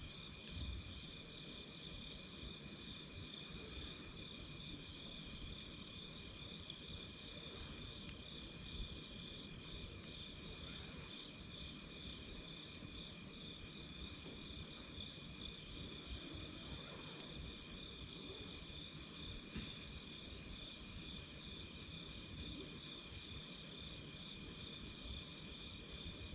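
Insects chirring steadily in a fast pulsing trill, with faint occasional crackles and pops from a wood campfire.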